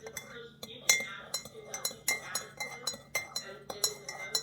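Dishes, glasses and cutlery clinking repeatedly, with indistinct voices chattering in the background.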